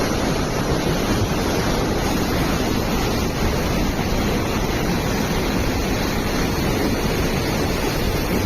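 Steady, loud rushing noise of torrential rain and running water, even and unbroken throughout.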